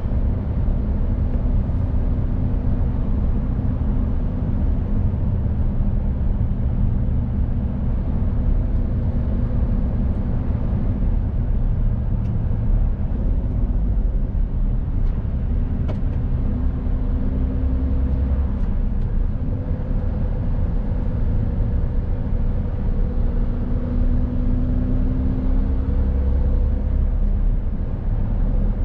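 Mercedes-Benz Actros truck on the move: its diesel engine running with a steady low rumble of engine and road noise, the engine note shifting a little in pitch now and then.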